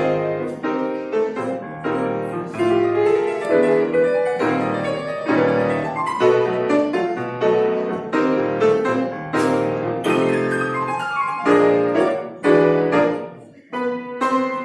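Piano playing a fast, lively piece with dense runs of quick notes. Near the end it drops away briefly, then picks up again with short, detached chords.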